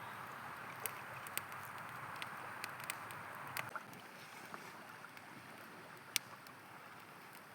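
A river running steadily, with a campfire crackling over it: scattered sharp pops, the loudest about six seconds in. The rush of water eases a little just before the four-second mark.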